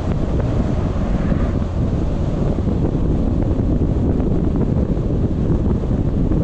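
Wind buffeting a small camera's microphone: a loud, steady, low rumble.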